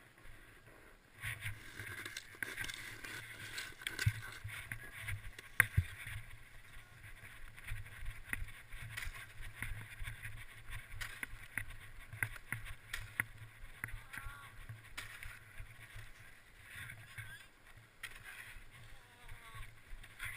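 Snowboard sliding and scraping over snow, heard on a helmet-mounted camera, with a steady rushing noise and many small knocks and rubs. The sharpest knock comes about six seconds in.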